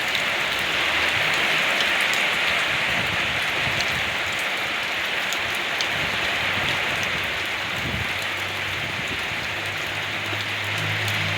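Steady rain falling, a dense even hiss dotted with the ticks of single drops. A low hum joins in during the last few seconds.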